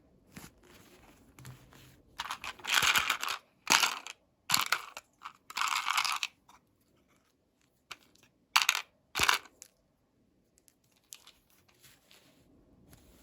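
Plastic packaging being torn open and crinkled in a run of noisy bursts, with two short sharp crackles a few seconds later and small clicks of handling.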